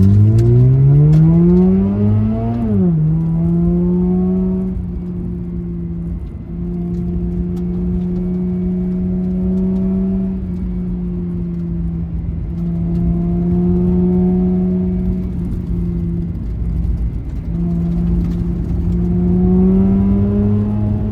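Mazda RX-8's 13B Renesis rotary engine through a Fujita Engineering SonicMuffle exhaust, revving up under acceleration in a rising pitch, then dropping sharply at an upshift about three seconds in. It then runs at steady revs with a few brief lifts off the throttle, and the pitch climbs a little again near the end.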